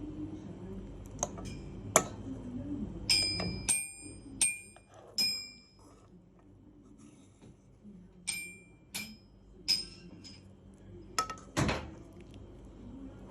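Kitchen utensil clinking against a dish: a series of sharp, ringing clinks in two bunches, with a few duller knocks among them.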